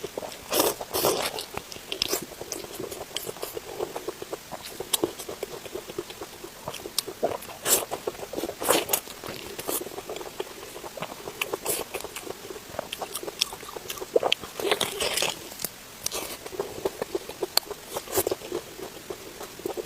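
Close-miked mukbang eating sounds: a person biting and chewing spicy pork belly, with irregular wet clicks and smacks and a few louder bites.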